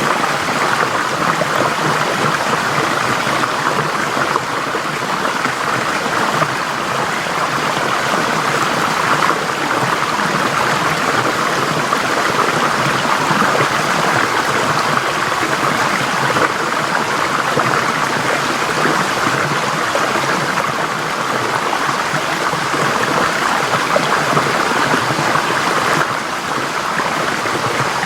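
Forest stream flowing over rocks: a steady rushing and babbling of water, even throughout.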